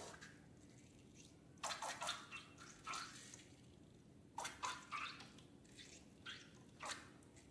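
Slime being squished and stirred, a string of short wet squelches and clicks coming in small clusters every second or so.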